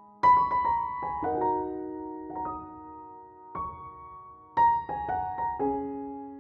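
Soft solo piano background music: gentle phrases of struck notes, each left to ring and fade.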